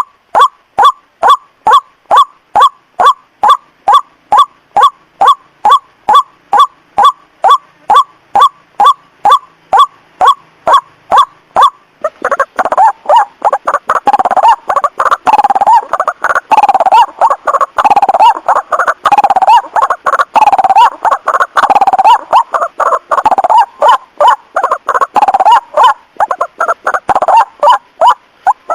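White-breasted waterhen lure call: evenly repeated croaking notes, about two and a half a second, then about twelve seconds in a denser, overlapping run of harsher calls.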